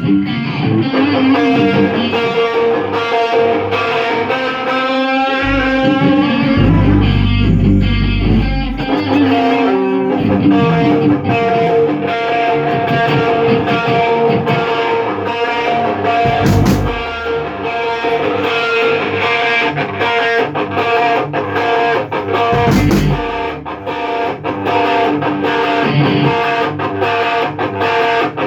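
Rock band rehearsing: distorted electric guitar playing, with a stretch of deep low notes from about six to nine seconds in and sharp percussive hits later on.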